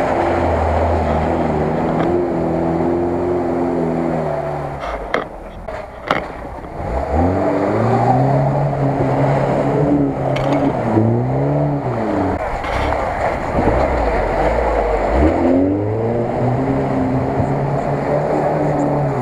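Lada Niva 4x4 engines revving hard as they push through a deep mud puddle, the pitch climbing and falling back in several surges, with water and mud splashing under the wheels. The sound dips briefly about a third of the way in.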